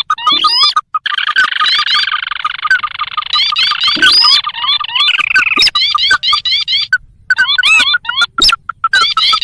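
Sintar crake calls from a bird-lure recording: rapid repeated upward-sweeping chirps over a fast pulsing note, thickening into a dense overlapping chorus for a few seconds, with a short break about seven seconds in.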